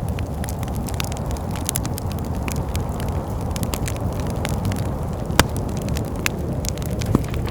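Wood fire crackling in a fireplace, with irregular sharp pops and snaps, one louder pop about five seconds in, over a steady low rumble of wind.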